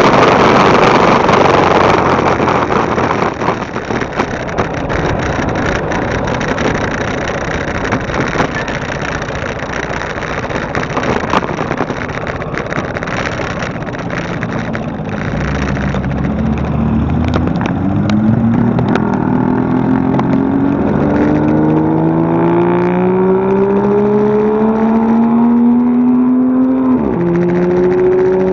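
Motorcycle engine under way with wind rushing over the microphone. After about halfway the engine note climbs steadily as the bike accelerates, then drops sharply near the end at a gear change and runs on steady.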